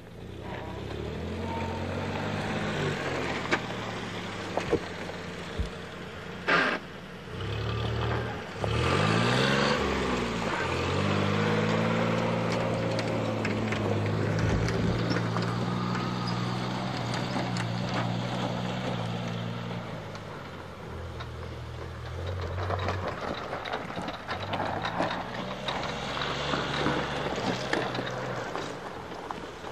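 Off-road 4x4 engine running, revving up and down a few times with steadier stretches between. A sharp knock comes about six and a half seconds in.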